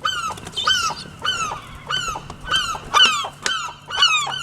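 Gull calling repeatedly, a rapid series of short down-slurred cries, about two to three a second.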